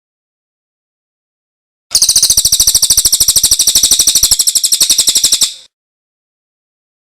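A songbird's rapid trill of sharp high notes, a dozen or more a second at an even pace, starting about two seconds in and lasting about three and a half seconds. It is loud and heavily boosted, as in a birdsong training recording.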